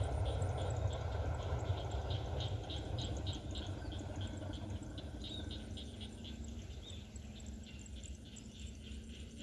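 Low rumble of a passing vehicle fading away, under insects chirping in a quick even rhythm of about three chirps a second that thins out in the second half.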